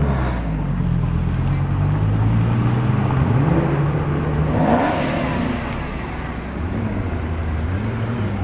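2013 SRT Viper's 8.4-litre V10 running as the car drives off. The engine note rises in pitch under throttle a little after three seconds in, then eases and gets slightly quieter.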